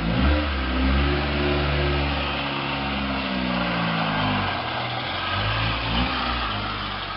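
Honda CRX four-cylinder engine revved, its pitch climbing, then slowly falling back over several seconds, with another short rev near the end.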